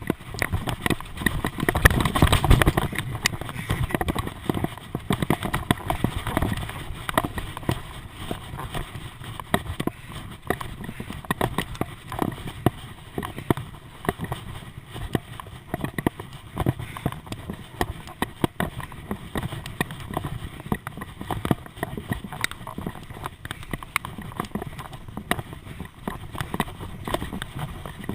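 Bicycle in motion, rattling and knocking with dense irregular clatter, louder for a moment about two seconds in.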